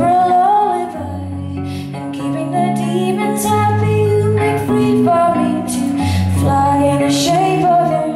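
A woman singing live, her melody wavering over long held low notes from the backing instruments.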